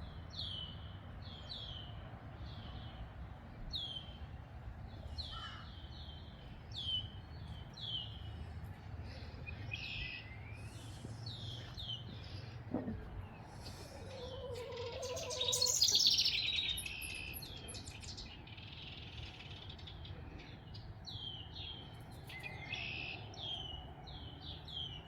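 Backyard songbirds chirping: a short falling note is repeated over and over, with a louder, busier burst of song about two-thirds of the way through. A faint low rumble runs beneath.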